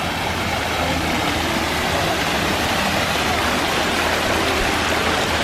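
A steady, even rushing noise with a faint low hum beneath it.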